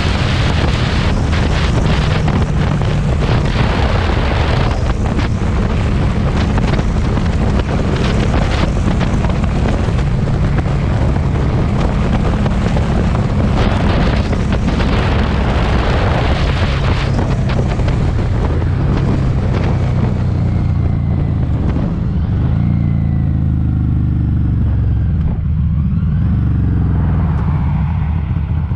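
Harley-Davidson Street 500's 494 cc V-twin running through an aftermarket TAB Performance exhaust under way, with heavy wind noise on the camera's built-in mic for most of it. About two-thirds through the wind eases and the engine note rises and falls in pitch.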